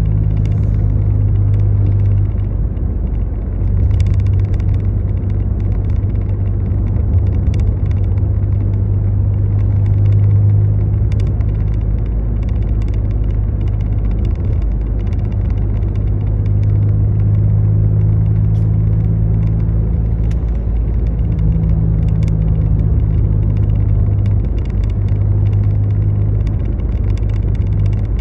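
Steady low rumble and drone of a motor vehicle running, with scattered faint ticks.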